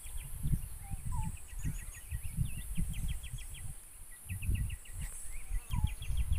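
Birds calling: repeated quick runs of short chirps and, a few times, a short rising whistled note. Low rumbling buffets on the microphone and a steady high hiss lie underneath.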